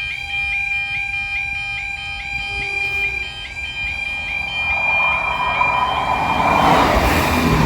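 UK level crossing's flat-toned audible warning alarm, a steady pulsing tone repeating about two and a half times a second. About five seconds in, the rumble of an approaching train rises and drowns the alarm out.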